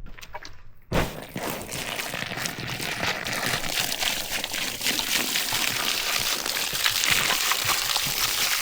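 A steady rush of pouring, splashing water that starts abruptly with a thump about a second in and carries on with small crackles throughout.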